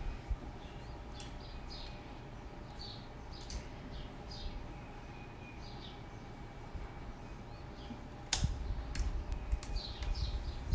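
Small birds chirping in short repeated calls over a steady low background, with a few sharp clicks or knocks about eight seconds in.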